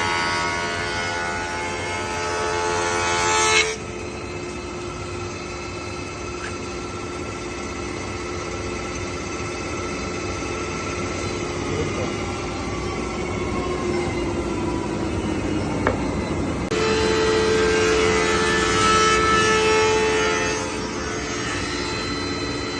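Felder 20-inch planer/joiner with a helical cutterhead cutting a board: a loud, many-toned cutting whine that stops abruptly about four seconds in. The machine then runs unloaded with a steady hum, and a second loud cutting pass comes in at about seventeen seconds and eases off near twenty-one.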